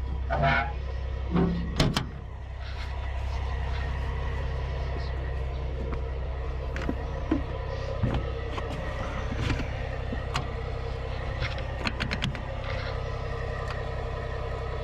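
Diesel engine idling steadily, with scattered clicks and knocks; a few louder knocks come in the first two seconds.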